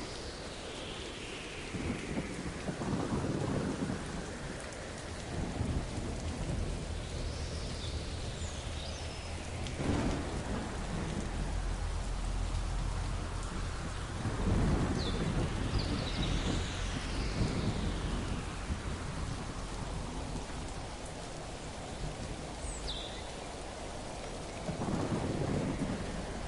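Steady rain falling, with thunder rolling in the distance in several low swells. A few brief bird chirps come through the rain.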